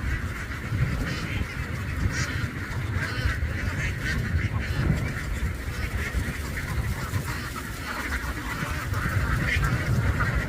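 A large flock of domestic ducks calling all at once: a dense, unbroken din of overlapping quacks, over a steady low rumble.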